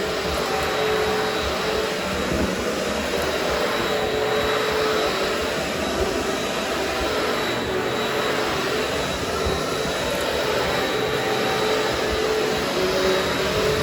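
Vacuum cleaner running steadily, its motor whine and airflow hiss continuous as it is pushed over a very dusty carpet.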